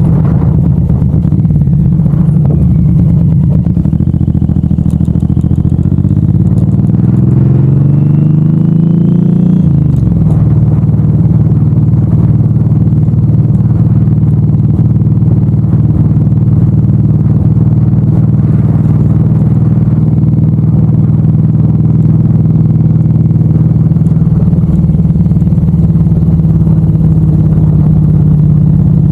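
Suzuki M109R's big V-twin engine running under way. The revs climb for several seconds, drop sharply about ten seconds in, then hold steady.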